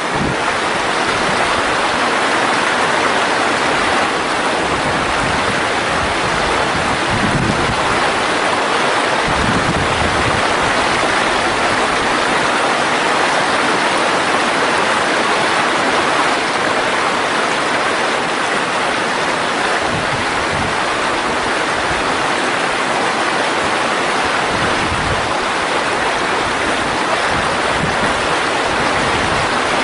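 Mountain stream rushing steadily over rocks, a loud even water noise.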